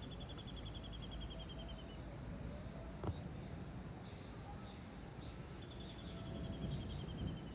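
A bird calling twice with a fast trill that falls slightly in pitch and slows, each lasting about two seconds, at the start and again near the end, over a steady low outdoor rumble. A single sharp click sounds about three seconds in.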